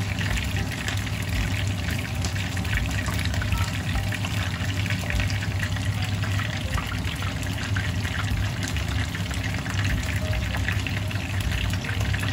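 Battered pork strips for tangsuyuk frying in a pan of hot oil: steady sizzling with fine crackling and spattering, over a steady low hum.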